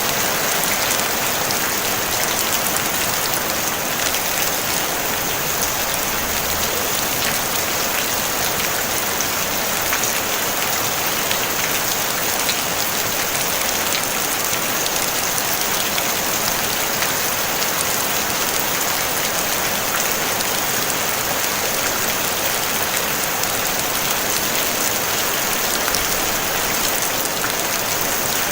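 Steady rain on a tin roof: an even hiss of rainfall dotted with countless small drop ticks on the metal, with no thunder.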